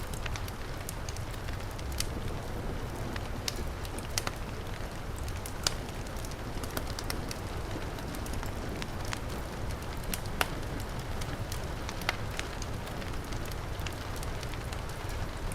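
Wood fire crackling, with sharp irregular pops, over a steady hiss of heavy rain.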